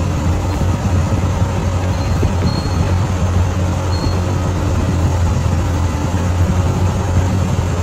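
Bulldozer's diesel engine running steadily, a constant low drone with no pauses.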